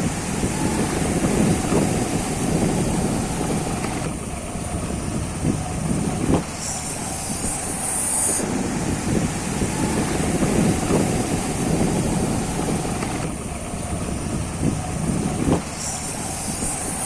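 Steady rumble of a moving motorbike ride, with wind buffeting the microphone and no clear engine note. A high hiss swells and fades twice, about a third of the way in and near the end.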